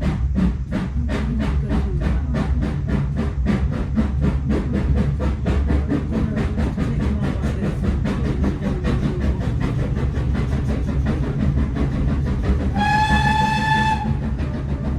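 Steam locomotive 5541, a GWR prairie tank, working hard as it pulls away, its exhaust beats quickening over a heavy rumble. Near the end it gives one short whistle blast of about a second.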